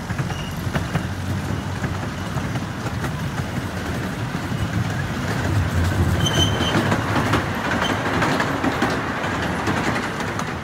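Small amusement-park train's open cars rolling along the track: a steady rumble with rapid clicking of the wheels on the rails, growing louder about six seconds in, with a brief high squeal around then.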